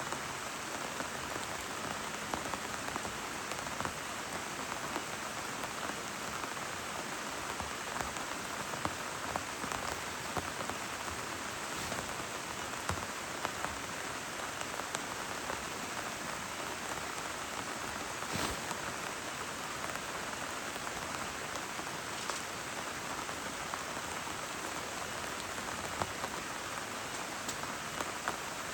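Heavy rain falling steadily, with scattered louder drops striking close by.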